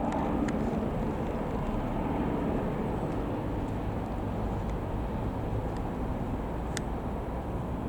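Bell 505 Jet Ranger X helicopter running with a steady low rumble.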